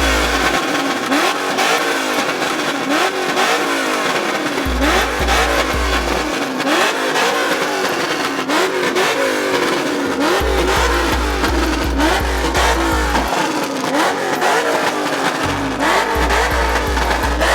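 Car engines revved over and over at a car meet, each rev rising and dropping back in quick succession. A deep bass beat thumps in stretches underneath.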